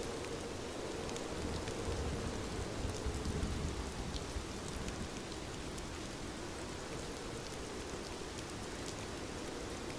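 Steady rain falling, with scattered sharp ticks of single drops. A low rumble swells briefly between about two and four seconds in.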